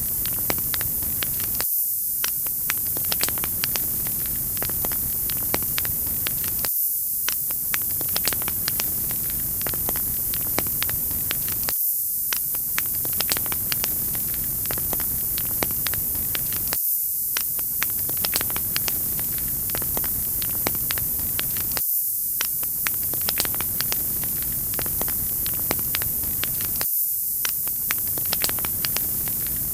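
Wood fire crackling: a steady hiss with frequent sharp pops and crackles. The lower part of the hiss drops out briefly about every five seconds, as a repeating loop would.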